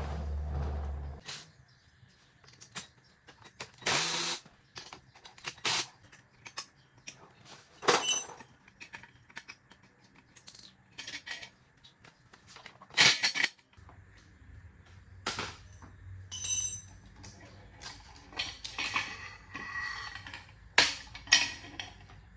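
Scattered metallic clinks and clanks of hand tools, bolts and pipe being handled while a motorcycle exhaust is unbolted and taken off. There are about a dozen separate knocks, some with a short bright ring, and the loudest comes a little past halfway.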